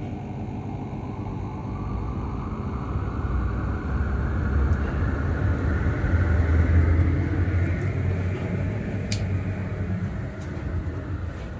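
Rebuilt food-truck range-hood exhaust fan running, with a low hum and a whooshing band that rises in pitch and grows louder for several seconds, then eases slightly. One sharp click about nine seconds in.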